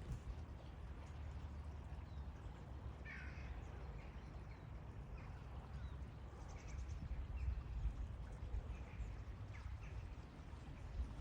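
Birds calling in scattered short calls, a few seconds apart, over a steady low rumble.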